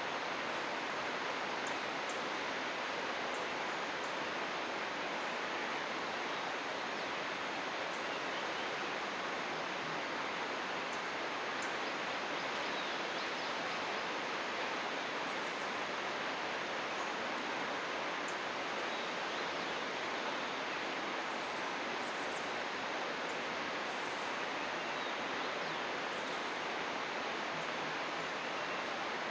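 Steady rushing of flowing stream water, even and unbroken, with faint high chirps now and then.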